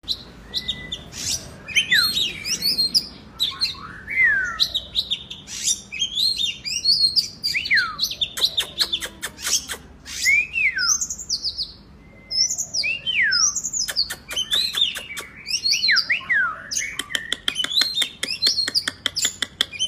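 Oriental magpie-robin (kacer) singing a long, varied song. It mixes clear whistles that sweep sharply downward with short chirps and bursts of rapid clicking notes.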